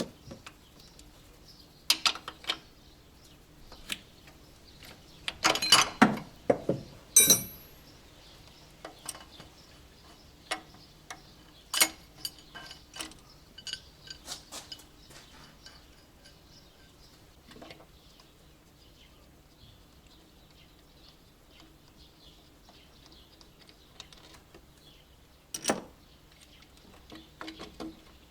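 Metal hand tools and engine parts clicking and clinking in irregular knocks, with a cluster of louder clanks about six seconds in and one sharp knock near the end.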